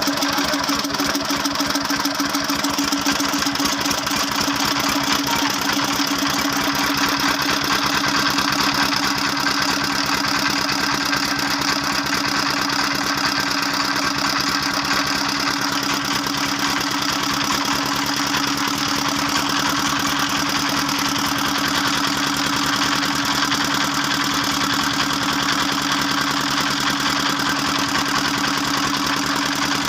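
Small portable generator's engine running steadily at constant speed, with an even hum and rapid firing pulses.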